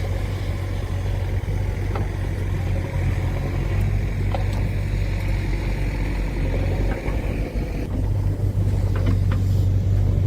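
Heavy diesel machine engine running steadily with a low drone, a few light clicks and knocks over it. About eight seconds in, the engine note shifts, its higher whine dropping away and the low hum growing stronger.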